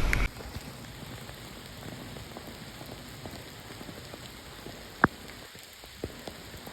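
Steady rain falling, an even soft patter, with one sharp tap about five seconds in and a couple of fainter taps shortly after.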